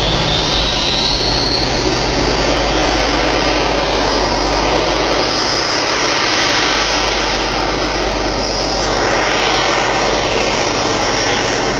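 A loud, steady engine roar held at an even level, with a faint high whine rising near the start.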